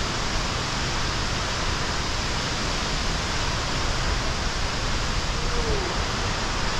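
Steady, loud rush of a waterfall's falling water and spray, an even noise without breaks.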